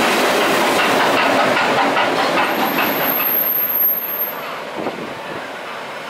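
A train passing close by at a platform: an electric locomotive towing the cold DT668 steam locomotive, which adds no exhaust beats. The wheels clatter over the rail joints, with a thin high squeal for about a second midway. About four seconds in, the sound drops to a quieter rumble as the train draws away.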